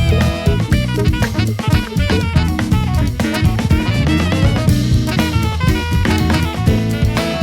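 A funk-jazz octet playing: drum kit with kick and snare keeping a busy groove under electric bass, guitar, keyboard and a horn section of saxophone, trumpets and trombones.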